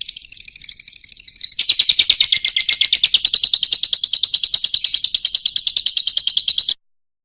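Fischer's lovebird singing a rapid, even stream of sharp, high chirps, about fourteen a second. It gets louder about a second and a half in, then cuts off abruptly near the end.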